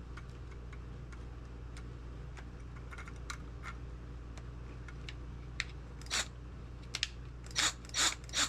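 Small metal parts of an old lantern being worked by hand over a low steady hum: light scattered clicks and taps, then from about six seconds in short scraping strokes, four of them in the last two and a half seconds, as a fastener is swapped and worked tighter.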